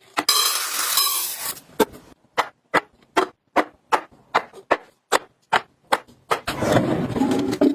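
Packaging rustling, then a run of light sharp clicks about two or three a second as small items are set down one by one, then more rustling near the end.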